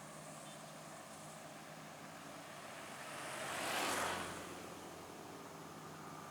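A vehicle passing close by: a rushing swell that rises to a peak about four seconds in and fades quickly, over a steady low engine hum.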